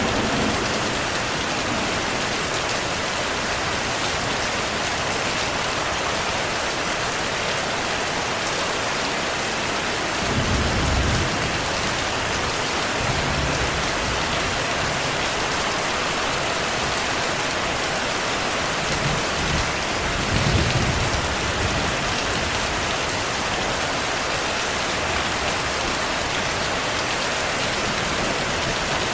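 Steady heavy rain with low rumbles of distant thunder, one about a third of the way in and another, in two parts, about two-thirds through.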